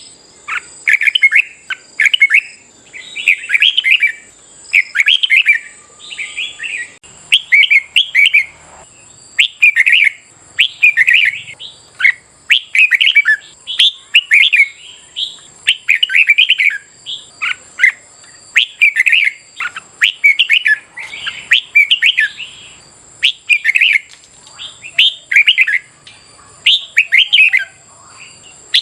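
Red-whiskered bulbuls singing, a quick string of short whistled phrases with brief gaps between them, over a faint steady high-pitched tone.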